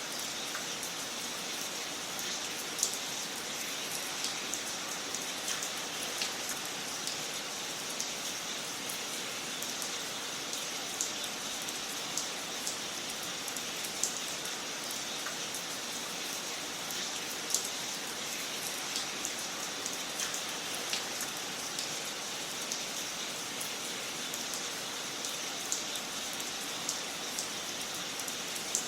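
Wood fire crackling in a fireplace: a steady hiss with many small crackles scattered through it and a few louder sharp pops.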